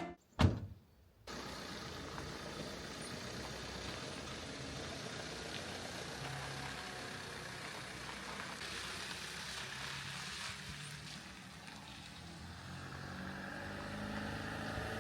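A car running steadily at low level, with a faint low engine hum that grows a little louder near the end. A single click sounds about half a second in, followed by a moment of silence before the running noise starts.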